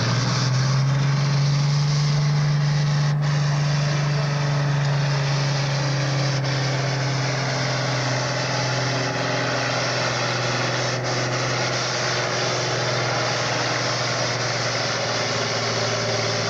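Diesel super farm pulling tractor running hard under load down the track, pulling the weight-transfer sled. The engine note is loud and steady, sagging slowly in pitch as the pull goes on.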